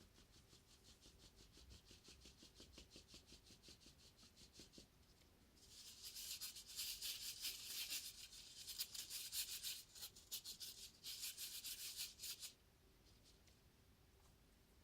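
Rapid scratchy rubbing strokes, about seven a second, soft at first and louder from about six seconds in, with a brief pause near ten seconds before stopping suddenly.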